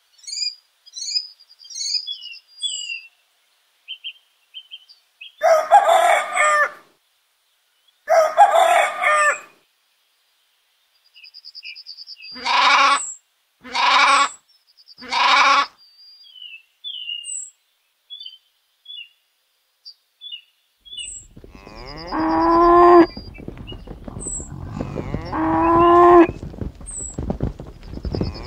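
Farm-animal calls over small birds chirping: a few short animal calls in the middle, then cows mooing several times, long and low, in the last third.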